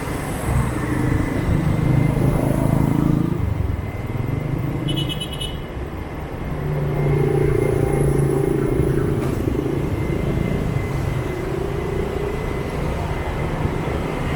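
Street traffic heard from a moving motorbike: the scooter's engine and the motorbikes and cars around it running steadily, the engine note swelling twice. A brief high beeping comes about five seconds in.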